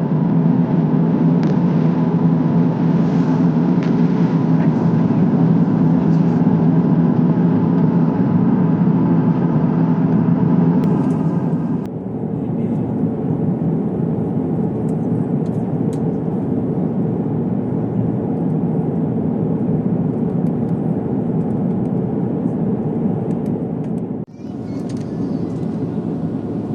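Steady in-flight cabin noise of an Airbus A350-900 airliner: a low engine hum over a constant rush of air. It drops a little in level about twelve seconds in and dips for a moment near the end.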